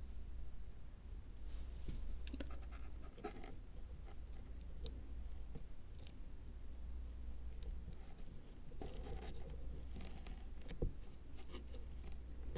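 Soft scratching and scattered small taps and clicks of hands working materials on a miniature Zen rock garden diorama, over a steady low hum.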